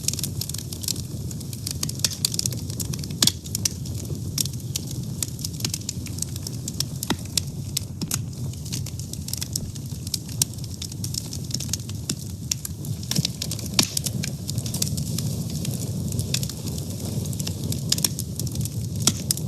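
Fire burning, with a steady low rush under dense, irregular crackles and pops, a few of them sharper and louder.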